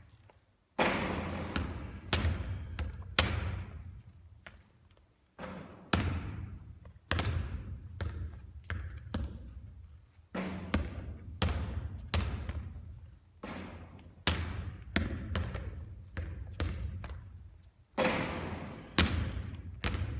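A basketball bouncing on a hard court over and over, sharp thuds in irregular clusters, each ringing briefly into the space.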